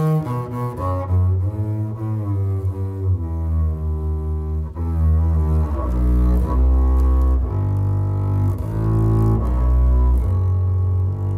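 Double bass played with the bow: slow, long-held notes that step from one pitch to the next, the lowest and loudest ones coming from about six seconds in.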